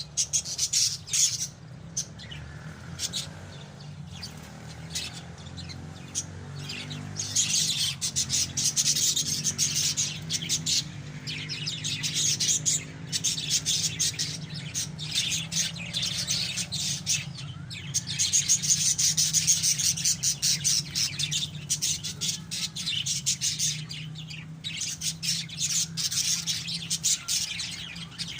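Pet lovebirds chattering: dense, rapid high-pitched chirps coming in waves of louder and quieter bouts, over a steady low hum.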